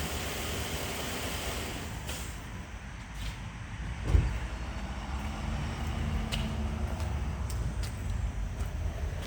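A vehicle engine running with a steady low rumble, one loud thump about four seconds in, and a few light clicks.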